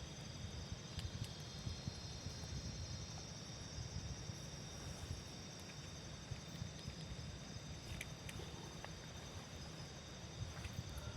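Insects such as crickets chirring steadily in several high tones, over a low rumble, with scattered light ticks and taps.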